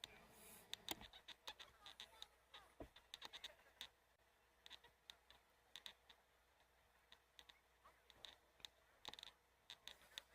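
Faint, irregular clicking and tapping, many small ticks scattered over near silence.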